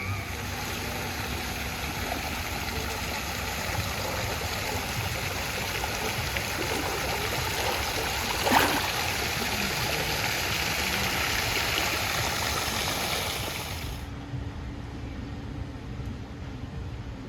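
Steady rushing and splashing of water in a lazy river, with one brief louder splash about halfway through. The rushing cuts off abruptly near the end, giving way to a quieter, duller background.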